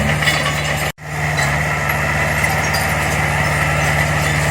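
Diesel engine of earthmoving machinery (a bulldozer or dump truck) running steadily, with a brief drop-out in the sound about a second in.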